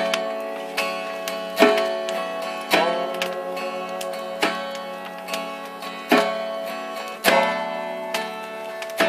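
Acoustic guitar strummed about once a second, each chord left to ring between strokes, with no singing.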